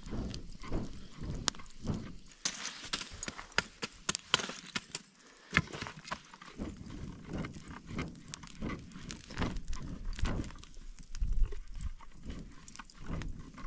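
Wood campfire crackling, with irregular sharp pops and a brief hiss of flame about two to four seconds in. Low rumbles run underneath.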